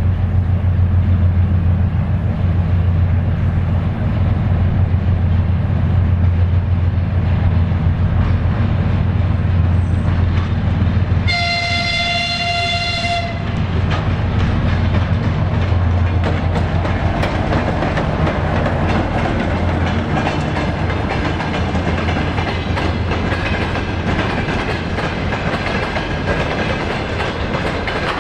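3TE10M diesel locomotive's 10D100 two-stroke opposed-piston engines pulling a freight train away, a steady low drone. About eleven seconds in, a locomotive horn sounds once for about two seconds; afterwards the freight wagons roll past, wheels clattering over the rail joints.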